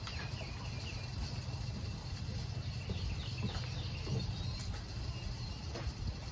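Birds chirping in short falling calls a few times, over a steady low rumble.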